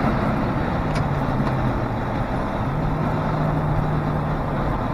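Ford Crown Victoria V8 running at highway speed out of overdrive, its exhaust coming through a truck muffler, with wind and road noise through the open window. The engine note steps up slightly about halfway through.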